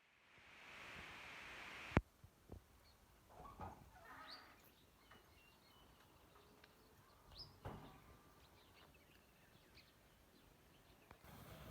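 Quiet outdoor ambience with a few faint, short bird chirps. A hiss builds over the first two seconds and ends at a sharp click.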